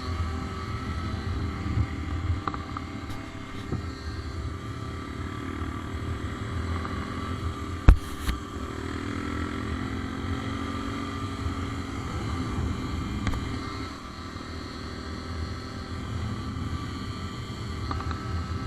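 A motor vehicle's engine running steadily, with a single sharp knock about eight seconds in.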